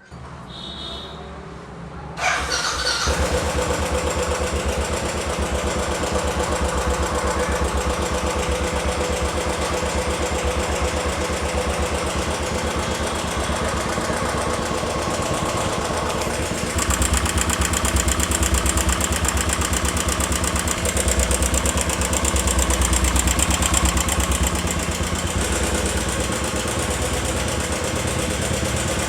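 Royal Enfield Classic 500's single-cylinder engine starting about two seconds in and then running, with a rapid tik-tik-tik ticking from a noisy hydraulic tappet. It gets a little louder and sharper about halfway through.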